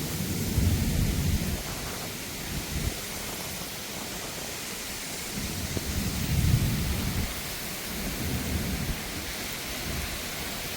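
Steady rain hiss with low rumbling that swells twice, about a second in and again around six seconds.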